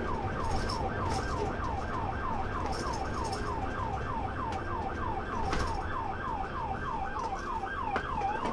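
Police car siren in yelp mode: a fast warble of about three or four falling sweeps a second, over a steady low rumble of engine and road. Right at the end it starts to change to a slow rising wail.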